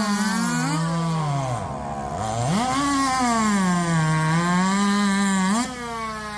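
Two-stroke racing chainsaw running flat out through a log, its engine pitch sagging and recovering under the load of the cut. The engine note drops sharply near the end.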